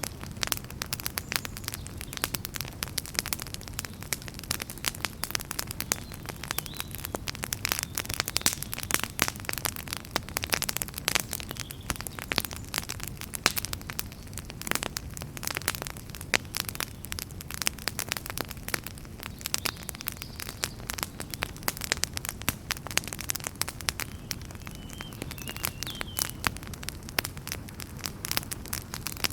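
Fire in a fireplace crackling, with frequent sharp pops and snaps over a low steady rumble of the flames.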